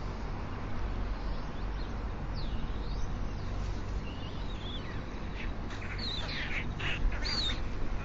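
Birds calling: a run of short, high chirps and squeaks that grows busier in the second half, over a steady low background rumble.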